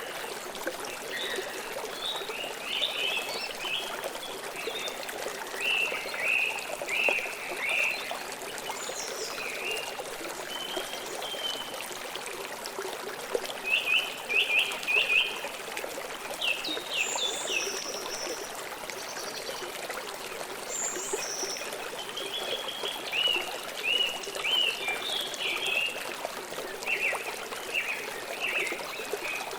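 A stream trickling and flowing steadily, with songbirds chirping and singing in short repeated phrases throughout, the busiest bout about halfway through.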